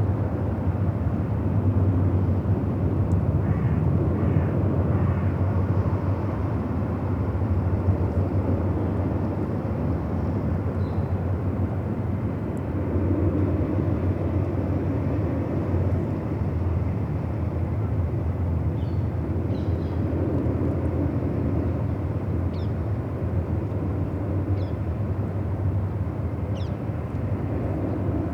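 Steady low rumble of outdoor riverside ambience, with a few short high chirps in the second half.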